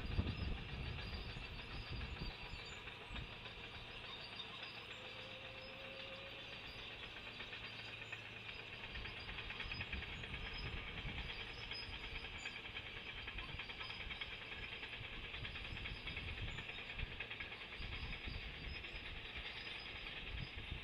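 Steady rushing outdoor noise with uneven low rumbling, picked up by a nest camera's microphone high on a light tower.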